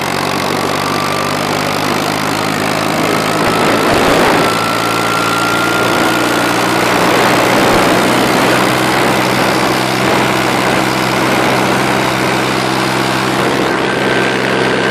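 McCormick 523 tractor engine running steadily, with a faint high whine that rises slowly in pitch over the first half.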